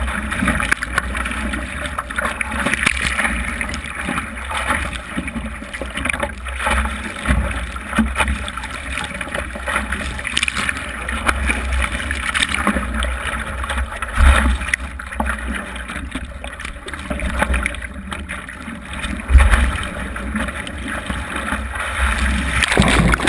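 Wind buffeting the microphone: a continuous low rumble that swells in gusts, strongest about 14 and 19 seconds in, with crackling over it.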